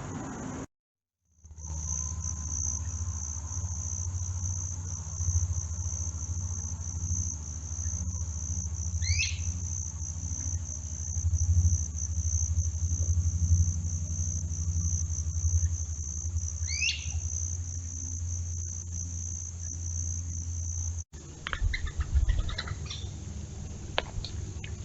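Insects trilling in one steady, high-pitched, unbroken note over a low steady hum, with a bird giving two short rising calls several seconds apart. Near the end the trill stops at a cut, and a few short bird chirps and clicks follow.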